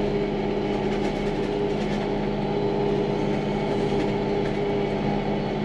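Farm tractor engine running steadily while driving, a constant hum with no change in pitch.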